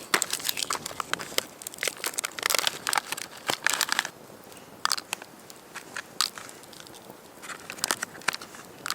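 Dry leaves and twigs crunching and crackling, a dense run of crunches for about four seconds, then a few scattered sharp snaps.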